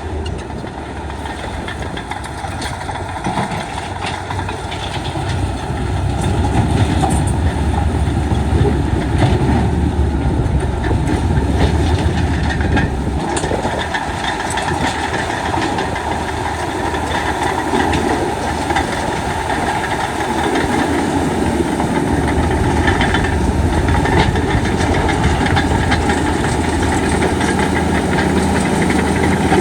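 Heavy diesel earthmoving machinery running: a steady engine drone that grows louder about six seconds in.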